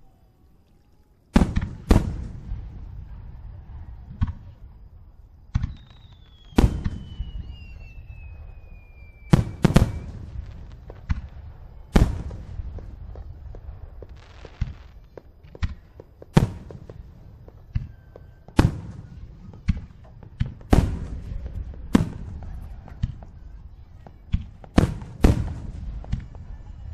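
Aerial firework shells bursting: a string of about twenty sharp bangs, irregularly spaced and some in quick pairs, with a low rumble lingering between them. The first second or so is quiet before the bangs begin.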